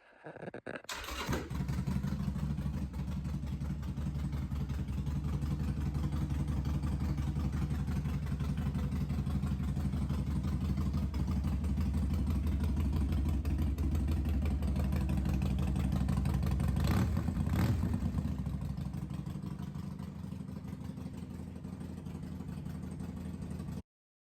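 Harley-Davidson Sportster XL1200 Forty-Eight's V-twin, fitted with Vance & Hines exhausts, starting about a second in and then idling steadily. Two short sharp knocks come about three-quarters of the way through, the engine settles a little quieter, and the sound cuts off abruptly near the end.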